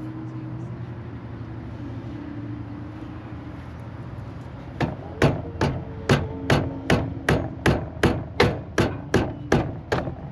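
About fourteen hammer strikes in a steady rhythm, roughly two and a half a second, starting about five seconds in, over a steady low hum.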